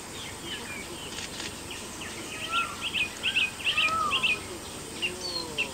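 Several forest birds calling: scattered short whistled notes, with a run of quick, sharp chirps about two to four seconds in and a few lower falling notes near the end, over a steady background hiss.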